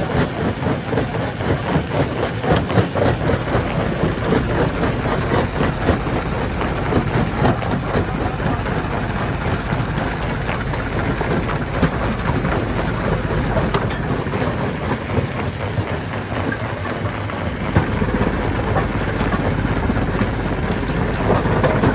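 Heavy machinery engine running steadily under a continuous clatter of rock, with many small knocks and impacts throughout.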